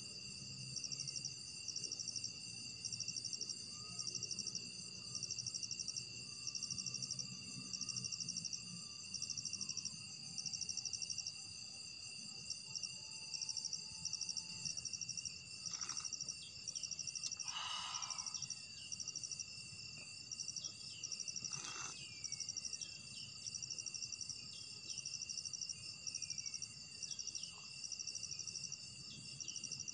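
Crickets and other insects trilling, a steady pulsing chorus over a constant high whine, with short falling chirps now and then.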